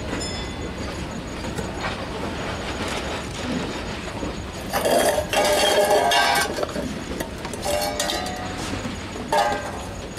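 Freight train of covered wagons rolling slowly along curved track with a steady running noise of wheels on rails. Shrill metallic wheel squeal and clinking ring out loudly for about a second and a half from about five seconds in, with shorter bursts near eight and nine and a half seconds.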